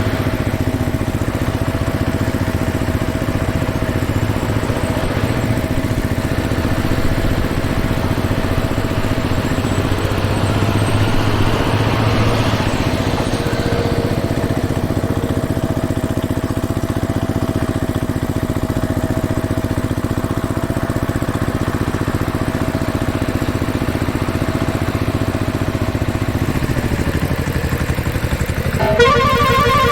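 An engine running at a steady idle, holding one pitch. Near the end it drops away and a pulsing horn toots.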